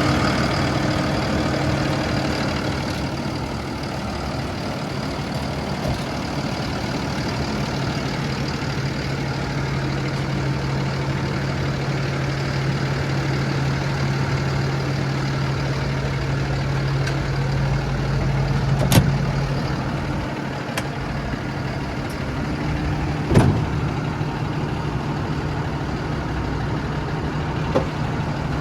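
Cummins B6.7 turbo-diesel inline-six in a 2024 Mack MD truck idling steadily just after starting. Two or three short sharp clicks sound over the idle in the second half.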